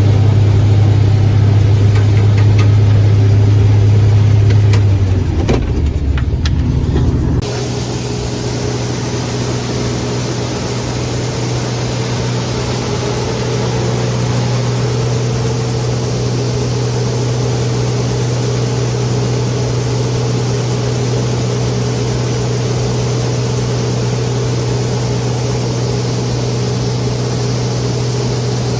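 Farm machinery engine running steadily under work, a loud constant drone. About seven seconds in the sound changes abruptly to a slightly quieter, hissier engine drone that carries on evenly.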